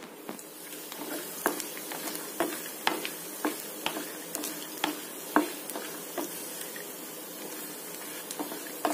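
Chopped cashews frying in ghee in a pan, sizzling quietly while a wooden spatula stirs them. The spatula taps and scrapes against the pan about every half second, less often toward the end.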